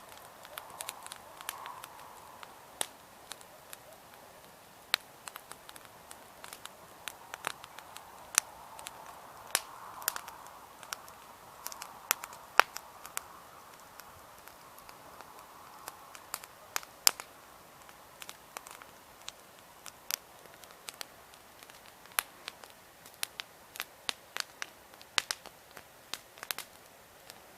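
Wood campfire crackling: irregular sharp pops and snaps of varying loudness over a soft hiss of burning that swells and fades.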